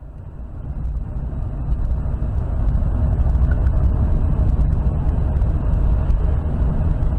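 A car on the move: steady low engine and road rumble, building up over the first two seconds and then holding even.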